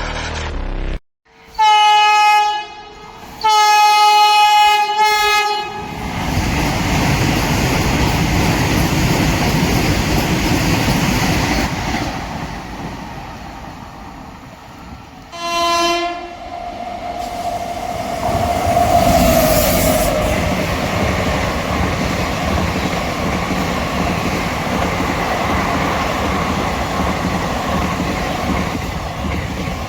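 A high-speed train, the Vande Bharat Express, sounds two long horn blasts as it approaches, then rushes past with a loud rolling rumble and wheel clatter over the rails. It gives one more short horn blast about halfway through.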